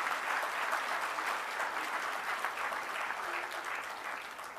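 An audience applauding, a dense spread of many hands clapping that holds steady and then fades out near the end.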